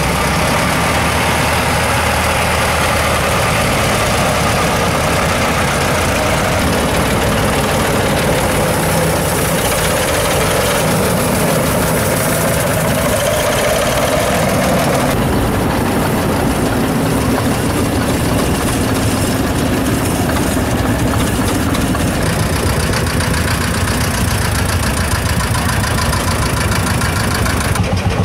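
Tractor engines running steadily as tractors pass at parade speed; the sound shifts about halfway through as a different machine comes closest.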